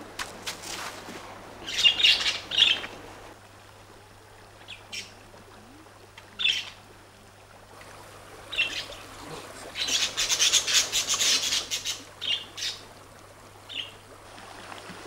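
Birds calling in short, high-pitched bursts, with a longer rapid run of calls from about ten to twelve seconds in.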